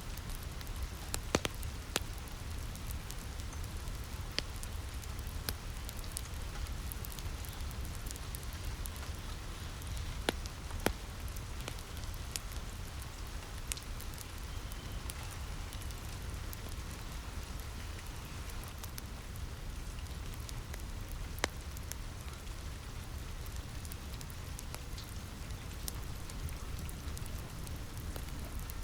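Steady rain with a low rumble underneath, with a few sharp pops and crackles from a wood fire scattered through it.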